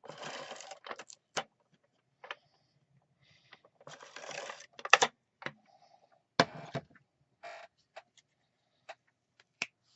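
Tape runner being run along a strip of paper: two rasping strokes of just under a second each, at the start and about four seconds in, with scattered sharp clicks and taps of handling in between.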